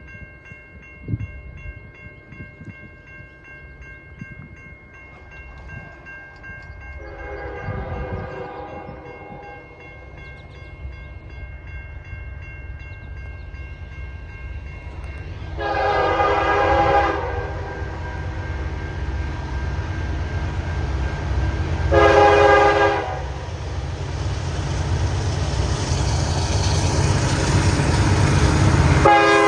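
CN SD70I locomotive's K3H five-chime air horn blowing for a grade crossing: a fainter long blast about seven seconds in, a loud long blast at about sixteen seconds, a short one at about twenty-two seconds, and the next long blast starting at the very end. Under it the diesel rumble of the approaching train grows steadily louder.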